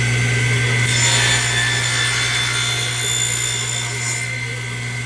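A woodworking power tool running steadily while working a wooden floor register, with a strong, steady low motor hum and fainter higher whine tones over a hiss of wood being cut or abraded.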